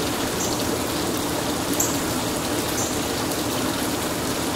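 Steady rushing noise, even and unbroken, with a few short, faint high chirps.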